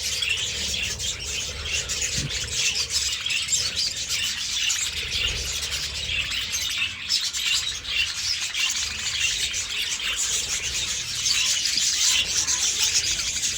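A flock of budgerigars chattering together: a steady chorus of many overlapping short, high chirps and warbles.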